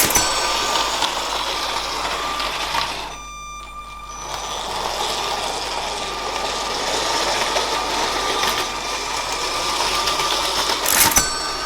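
Toy LEGO train's small electric motor running with a steady whir and hum, dropping away briefly about three seconds in before picking up again. A sharp click sounds about eleven seconds in.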